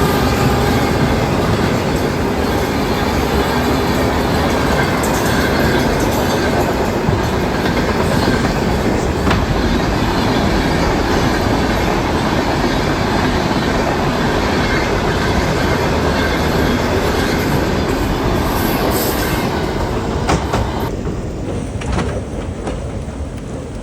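A train running on the rails: a loud, steady rumble with wheel clatter and a few sharp clicks, the hiss in the upper range falling away about 21 seconds in.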